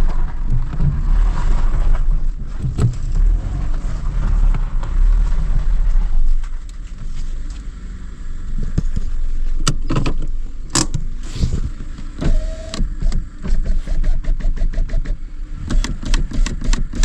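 A vehicle engine running with a strong low hum for about the first six seconds, then dropping away, with a few sharp knocks and clicks later on and a quick run of them near the end.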